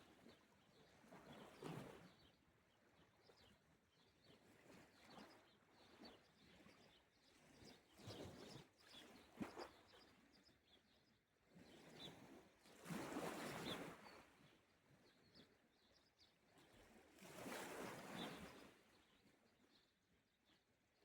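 Small sea waves washing onto the shore, one faint surge of water every few seconds, the strongest about two-thirds of the way through, with faint bird chirps in the background.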